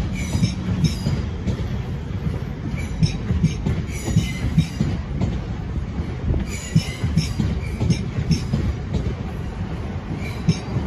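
South Western Railway electric multiple-unit train running past close by: a steady low rumble of wheels on rail with frequent clacks over the rail joints, and short high-pitched wheel squeals that come in clusters every second or two.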